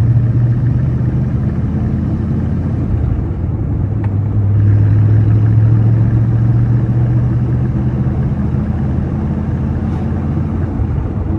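1972 Corvette's 350 V8 running under way, with road noise and a steady low drone that eases briefly about three to four seconds in.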